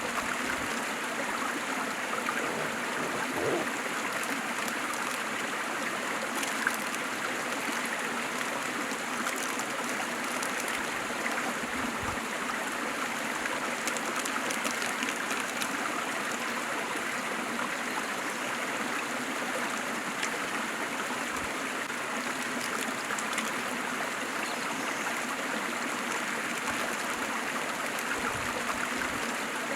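Waterfall, water falling and splashing in a steady, even rush with no breaks.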